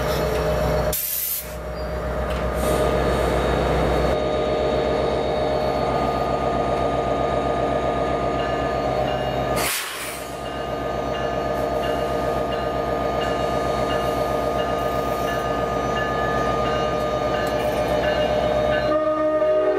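NJ Transit diesel-hauled passenger train running at the station: a steady locomotive engine drone with rail noise and ringing tones. The sound drops out briefly about a second in and again near the middle.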